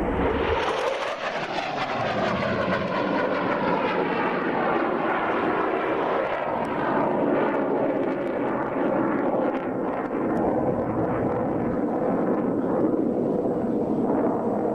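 Airplane engine passing close by, its pitch dropping in the first seconds as it goes past, then a steady drone.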